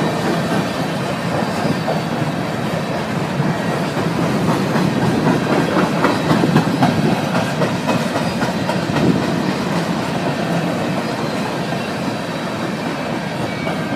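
Freight train's covered hopper cars rolling past close by: a steady loud rumble with wheels clattering over the rails.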